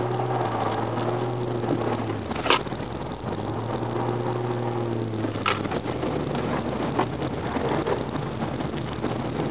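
Holden VY Commodore S's 3.8-litre V6 heard from inside the cabin, held at steady revs, easing off about two seconds in, held steady again and easing off again a little past halfway, over the hiss of tyres on a wet surface. Two sharp clicks, about three seconds apart.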